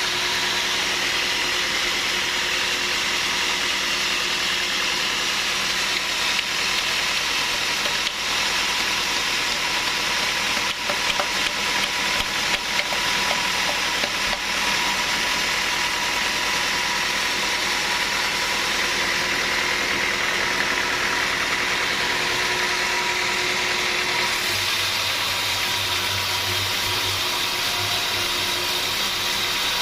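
Sawmill machinery running steadily, with a cluster of short knocks about eleven to thirteen seconds in. The sound changes about two-thirds of the way through, when a low hum joins in.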